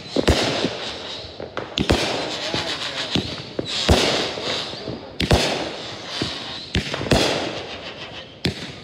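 Consumer aerial fireworks going off in a quick series: a sharp bang about every one and a half to two seconds, each followed by crackling, with smaller pops in between.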